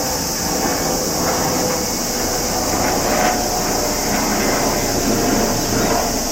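A chorus of cicadas singing in a steady high-pitched drone. Underneath it runs a lower, rumbling background noise.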